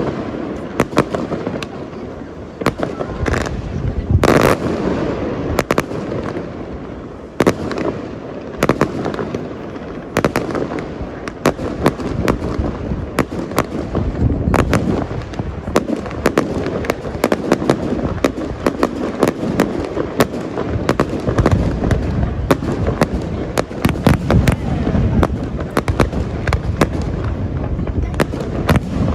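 Aerial fireworks display: a rapid, continuous barrage of cracks and booming shell bursts over a rolling rumble, with a couple of longer hissing bursts about three to five seconds in.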